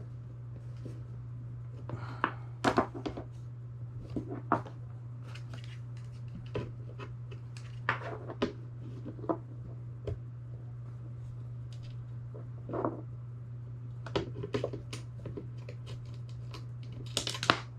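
Small parts of a BK shuttle being handled and fitted by hand: scattered clicks, taps and light knocks, over a steady low hum.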